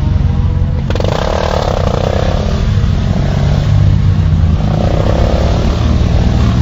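Motorcycle engine running and revving up and down.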